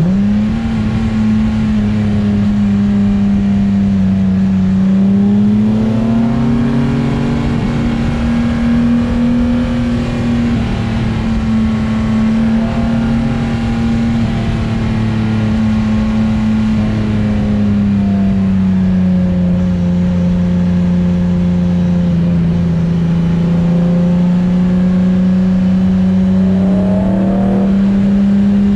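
Engine note of a Datsun S30 Z swapped to a Nissan VQ35DE 3.5-litre V6, cruising under light, steady throttle. Its drone holds one pitch, rises a little about a fifth of the way in, eases down just past the halfway point and climbs slightly again near the end.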